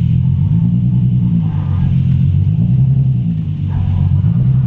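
Nissan 300ZX's V6 engine running while driving, a steady low rumble with road noise, heard from inside the cabin. The engine note steps up a little about a second in and again near the end.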